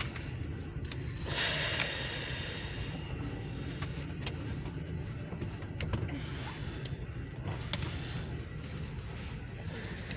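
Low steady rumble of a passing freight train of tank cars, heard from inside a car, with scattered light clicks. A brief louder hiss comes about a second and a half in.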